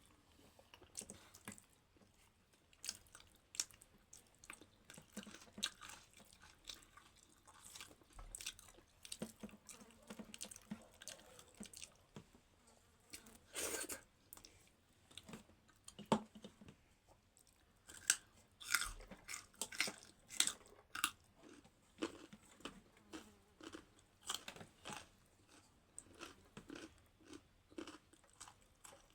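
Close-miked chewing and biting of food, with irregular wet mouth clicks and crunches. A louder bite comes about halfway through, and a cluster of louder crunches follows a few seconds later.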